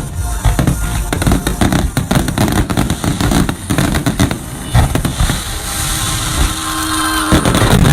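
Fireworks going off in rapid succession, a dense stream of bangs and crackles that barely lets up.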